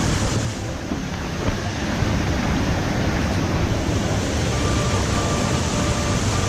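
Waterfall's rushing water: a steady, dense noise with a heavy low rumble.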